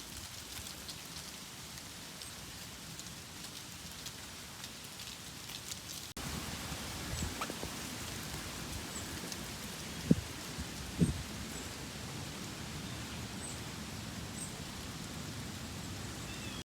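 Steady rushing noise of a mountain bike rolling along a greenway path, tyre and wind noise on the camera's microphone. It steps up in level about six seconds in, with a few sharp low thumps of bumps under the wheels near the middle.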